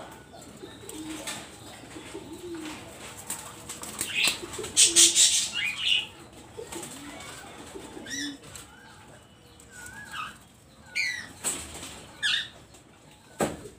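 Doves cooing low, with a loud burst of wing flapping about four to six seconds in. Short, high, wavering chirps come several times in the second half.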